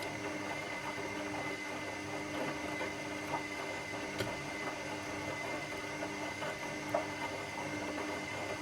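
Washing machine running steadily: a constant hum and whirr with a faint high whine, and a few light knocks now and then.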